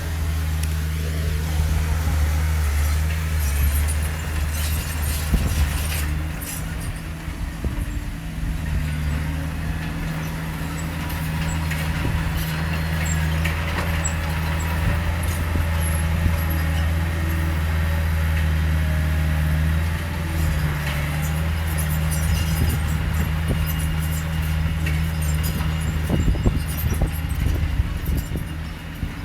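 Heavy diesel engine of earth-moving machinery running steadily, with scattered clanks and knocks.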